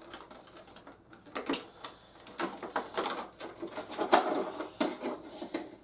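Irregular clicks, taps and rustles of plastic toy parts and packaging being handled and put away, with one sharper click about four seconds in.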